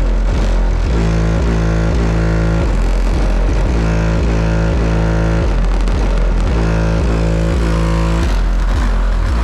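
Bass-heavy music played loud through an upgraded car audio system with a Skar 1500 amplifier, its deep sustained bass notes stepping to a new pitch about every second.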